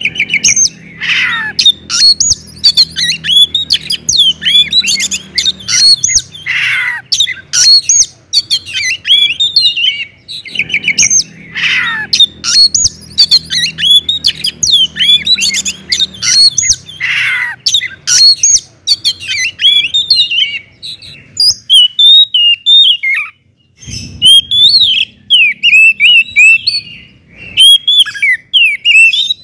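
Oriental magpie-robin singing loudly and continuously: a fast, varied run of clear whistles, chirps and harsh notes, broken every few seconds by a long downward-sweeping call.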